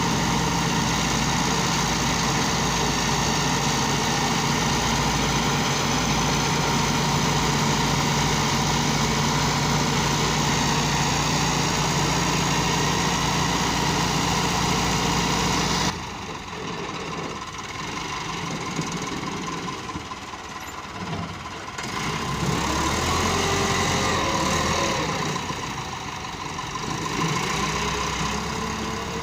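Massey Ferguson 385 tractor's diesel engine running steadily. About halfway through, the sound cuts off abruptly to a quieter engine sound that rises and falls in pitch.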